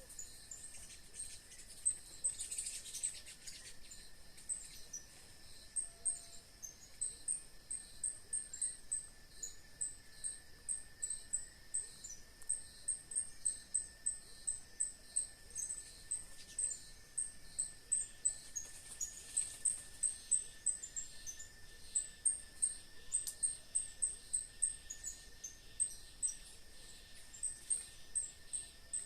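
Countryside dusk chorus of insects and birds: very high, short chirps repeating about three times a second over one steady, thin insect drone.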